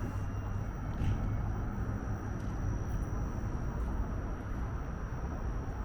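Steady outdoor street ambience: a low, even rumble of traffic and vehicles with a faint steady high-pitched whine over it.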